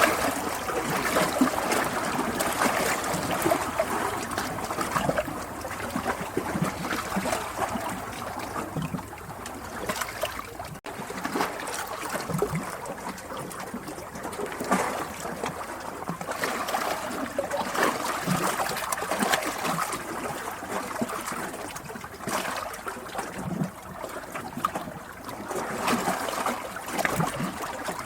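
Running water trickling and splashing, steady and continuous, with a momentary break about eleven seconds in.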